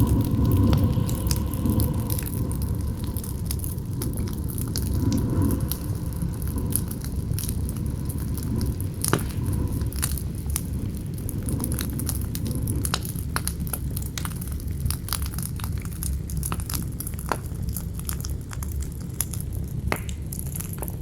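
Campfire crackling and popping with scattered sharp snaps, over a steady low rumble of wind. A faint whistling howl of the wind fades out about six seconds in.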